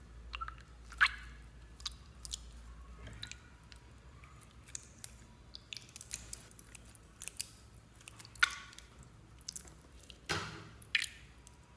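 Slime being squished and kneaded by hand, making irregular sticky clicks and small wet pops, with a few louder pops about a second in and near the end.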